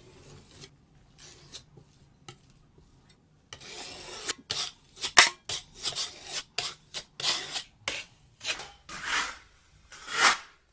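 A hand tool scraping and rubbing across a drywall patch. It is faint at first, then comes in about a dozen quick, loud strokes from about three and a half seconds in.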